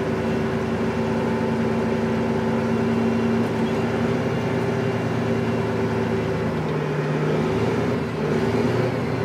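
Dump truck's diesel engine running steadily; its note drops about seven seconds in.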